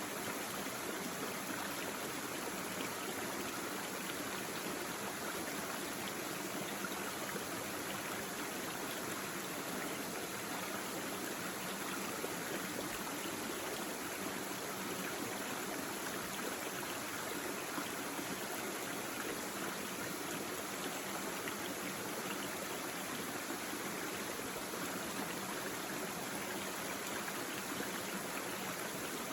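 Small brook babbling and trickling over stones: a steady, even rush of running water that holds unchanged throughout.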